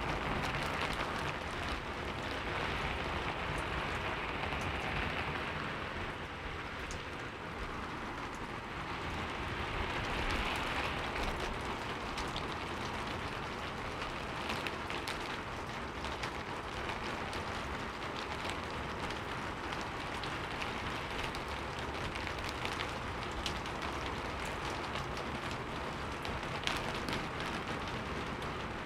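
Heavy rain falling steadily, with many separate drop hits heard sharply over the dense rush, swelling gently in intensity a couple of times.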